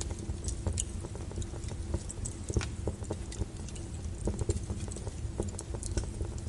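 Wood fire of burning logs crackling in a fireplace: a steady low rumble of flame with frequent, irregular sharp pops and snaps.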